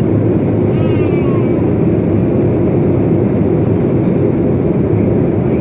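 Airliner cabin noise in flight: the steady, deep rush of jet engines and airflow, unchanging throughout.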